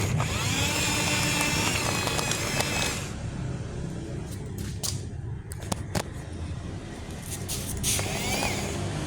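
Excavator working, with a steady low running sound and a whine that rises and falls early and again near the end, and a few sharp clicks and knocks in between.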